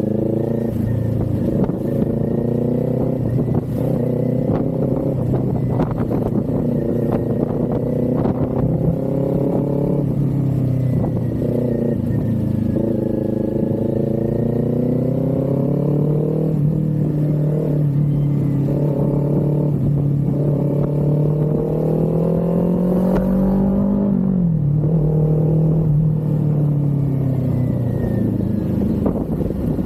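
Kawasaki Z400's parallel-twin engine under way, its revs climbing and dropping back several times as the rider accelerates, shifts and eases off.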